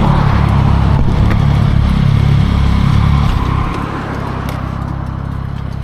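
Yamaha motorcycle running on the road, with engine rumble and wind noise. The sound drops to a lower steady level about three and a half seconds in.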